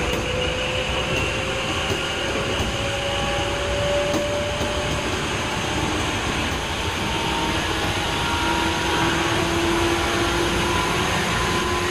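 Tokyu 8500 series motor car DeHa 8535 running on the line, heard from inside the car: a steady rumble of wheels on rail with traction-motor whine rising slowly in pitch.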